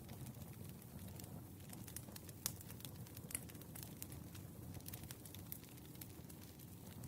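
Wood fire crackling: a soft steady rumble of burning logs with frequent sharp pops and snaps.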